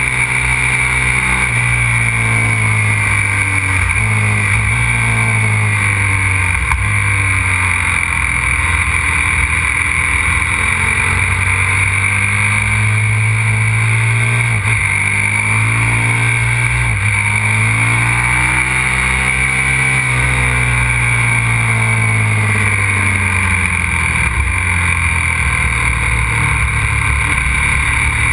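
Aprilia RXV 550 supermoto's V-twin engine at speed on a race track, its revs repeatedly rising and falling through gear changes and corners, over a steady rush of wind noise.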